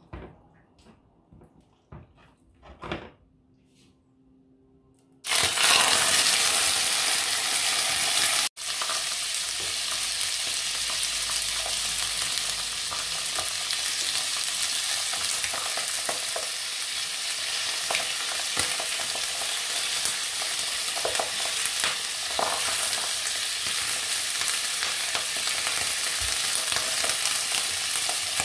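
Whole squid frying in hot oil in a stainless steel pan: a few light clicks, then a loud sizzle that starts suddenly about five seconds in and settles into steady frying. Small taps of a spatula pressing the squid come through the sizzle.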